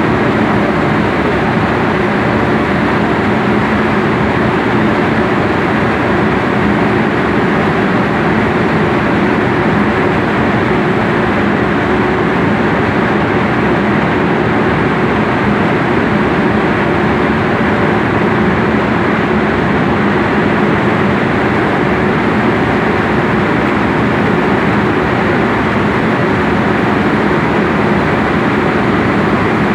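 Coffee box dryer running with its mixer stirring the coffee: a loud, steady machine drone with a low hum that doesn't change.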